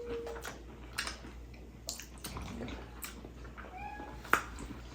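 Quiet eating sounds at a meal table: chewing and small clicks of utensils on plates, with one sharper click about four seconds in. Just before it comes a brief, faint, high-pitched sound.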